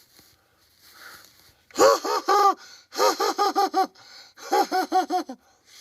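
A high-pitched voice making three quick runs of short repeated syllables, each rising and falling in pitch, like a squeaky giggle.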